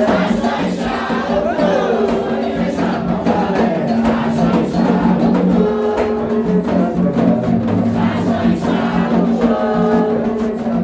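Group singing a Candomblé chant for the orixás, with drum beats running under the voices.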